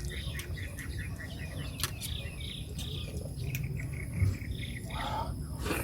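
A bird chirping in a rapid series of short notes, about five a second, that thin out to a few scattered calls in the second half. A low steady background rumble runs underneath, with a couple of light clicks.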